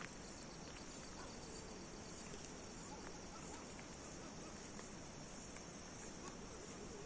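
Crickets and other night insects chirping in a steady high trill, with a faster pulsing chirp over the first two seconds and a few faint ticks.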